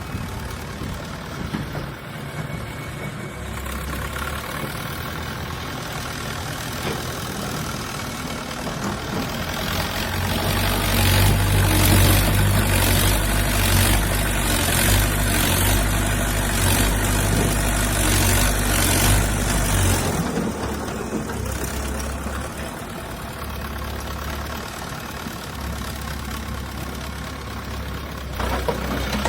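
Heavy machine's diesel engine running, louder and working harder for about ten seconds in the middle before settling back to a steadier run.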